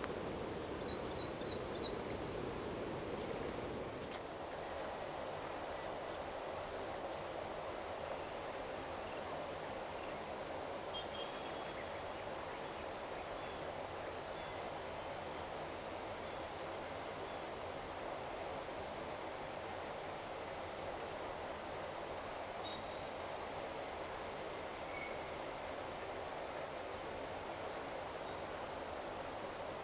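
Evening insect chorus over paddy fields: a steady high-pitched buzz, joined about four seconds in by a rhythmic chirp repeating about once a second, over a low steady rumble.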